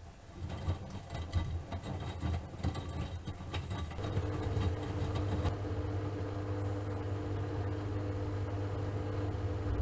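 Miele Softtronic W3923 front-loading washing machine starting up from quiet: irregular knocking and rattling for the first few seconds, then from about four seconds in a steady motor hum.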